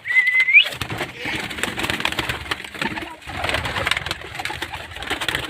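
Domestic pigeons cooing and stirring in a rooftop loft, with a short whistle rising in pitch right at the start.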